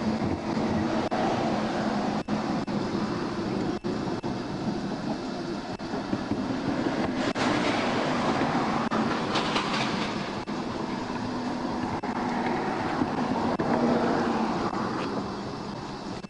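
Steady rumble of heavy vehicle noise with a low hum, swelling twice and easing near the end.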